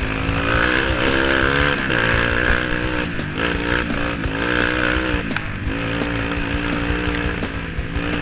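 Small motor-vehicle engines running and revving, several at once, their pitch rising and falling every second or so.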